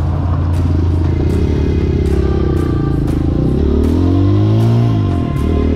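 Hawk 250 dirt bike's single-cylinder four-stroke engine idling while warming up on partial choke, revved up once about three and a half seconds in and dropping back to a steady idle near the end.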